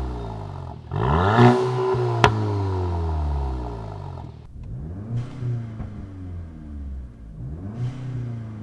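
VW MK8 GTI's turbocharged 2.0-litre four-cylinder revving through a muffler-delete exhaust. One hard rev about a second in falls away slowly, with a single sharp crack as it drops, and is followed by two shorter throttle blips.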